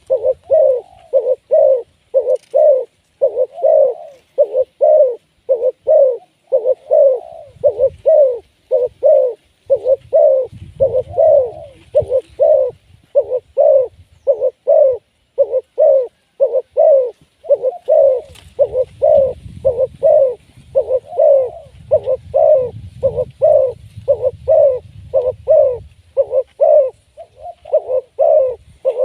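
Spotted dove cooing: a long unbroken run of short coos, about two a second.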